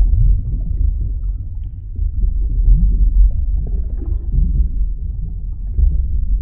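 Deep underwater rumble with a few short, low moans that rise in pitch, about one every two seconds.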